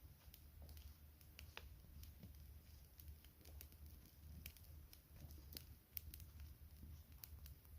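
Wood fire crackling quietly, with irregular sharp pops and snaps over a low rumble of the flames.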